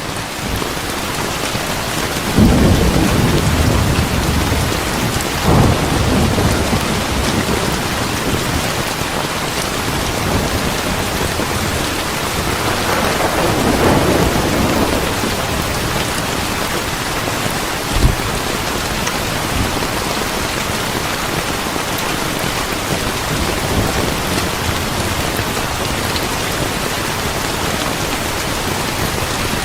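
Steady heavy rain falling, with rumbles of thunder rolling through several times and one short, sharp thunderclap past the middle.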